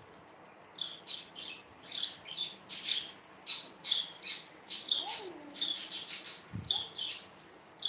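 Budgie chirping: a run of short, sharp chirps, coming thick and fast in the middle, with a lower falling note about five seconds in.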